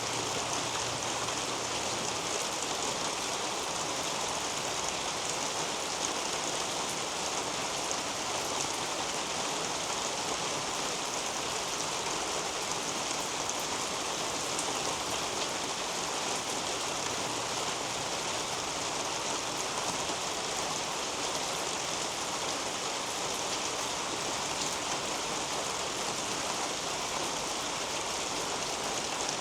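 Steady rain falling on a leafy garden canopy: an even hiss with no single drop or other event standing out.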